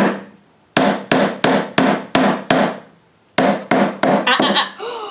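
A hammer driving a nail into cedar fence-picket wood: quick, regular blows about three a second, in two runs broken by a short pause. A brief voice is heard near the end.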